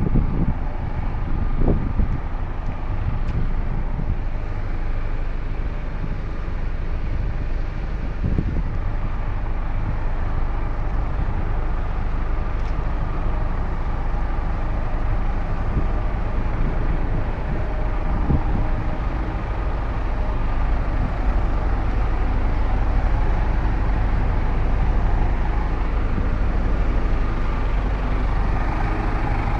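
Truck engine running steadily, a continuous low drone with no change in speed, and a few light knocks about two seconds in.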